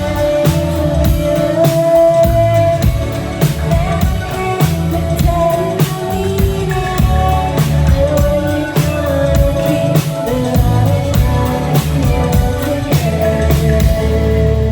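Rock band playing live: full drum kit with a steady beat under guitars and bass, and a singing voice.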